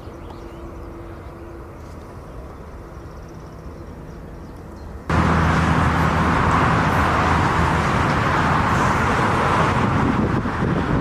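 Steady vehicle running noise: a low hum that jumps suddenly much louder about five seconds in, becoming a loud steady rush over a low drone.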